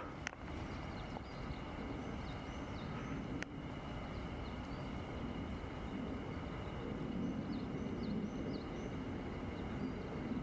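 Outdoor ambience: a low, steady rumble with faint, short chirping bird calls in the background, and a single sharp click about three and a half seconds in.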